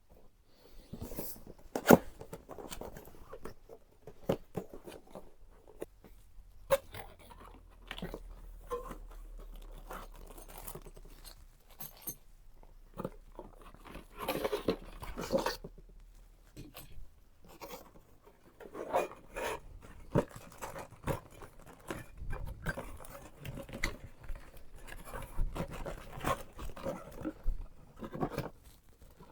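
Hands handling PC parts and their packaging: irregular clicks, knocks and rustling, the loudest a sharp knock about two seconds in.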